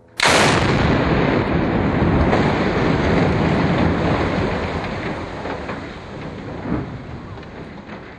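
Explosive demolition charges on a bridge going off in a sudden loud blast. A long rumble follows and fades over several seconds, with one more sharp crack about seven seconds in.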